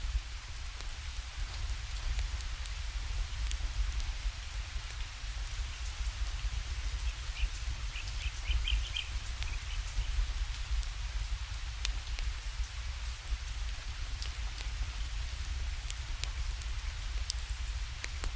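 Steady rainfall with a low rumble beneath it and scattered sharp ticks. About halfway through, a bird gives a short trill of quick high chirps.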